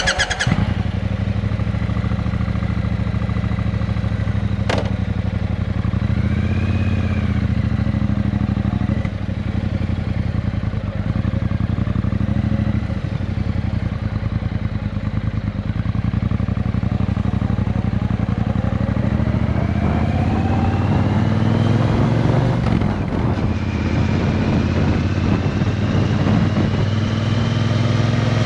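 Triumph Bonneville T120's 1200 cc parallel-twin engine, breathing through Vance & Hines pipes, firing up and then idling steadily. The revs rise a little about two-thirds of the way through.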